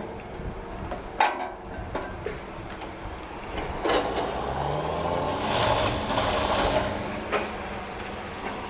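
A few sharp metallic clicks, then a heavy machine's engine rising in pitch for a few seconds with a loud hiss of air, easing off near the end.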